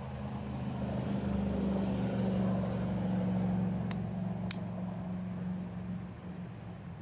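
A distant engine droning, swelling in over the first couple of seconds and fading away near the end, over the steady high buzz of crickets. Two light clicks sound just past the middle.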